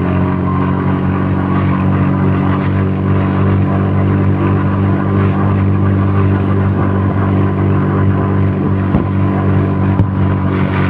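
An engine running steadily with an even, unchanging drone.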